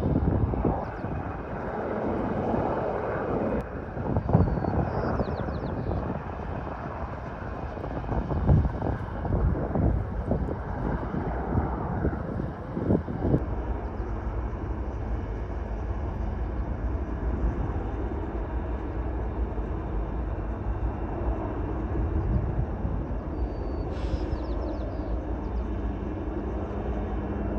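Aircraft engine drone with wind buffeting the microphone, gusty and uneven for the first dozen seconds, then a steadier low hum. A faint high chirp comes twice.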